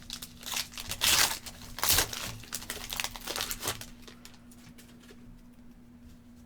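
A trading-card pack's foil wrapper being torn open and crinkled. The crackling is dense through the first few seconds, loudest just after one and two seconds in, then trails off into quieter handling.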